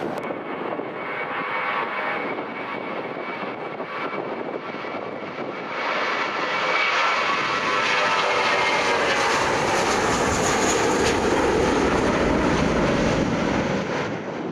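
Airliner engines passing close by, with a faint whine over a steady rush that grows louder about halfway through and deepens into a low rumble before easing off near the end.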